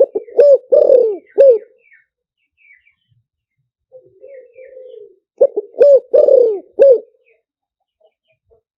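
Spotted dove singing its cooing song: a soft, wavering low lead-in followed by four or five loud, full coos, the phrase given twice, at the start and again about five seconds in. This is a decoy call used to lure wild spotted doves. Faint high chirps of small birds sound between the phrases.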